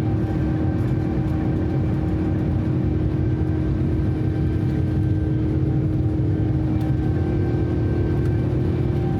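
Airliner cabin noise on a Boeing 787-9 under takeoff power: a steady, loud rush and rumble from its Rolls-Royce Trent 1000 engines and airflow, with a steady hum of a few fixed tones running through it.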